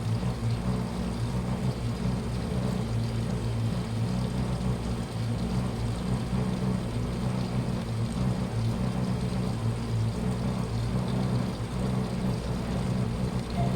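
Washing machine running with a steady low hum and no change through the stretch.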